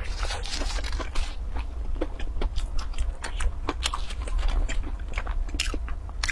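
Close-miked chewing and crunching of food, a dense string of sharp, irregular crunchy clicks, over a steady low hum.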